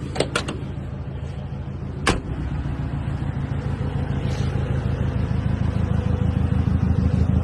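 Car engine running steadily, growing gradually louder. Two sharp clicks come just after the start and another about two seconds in.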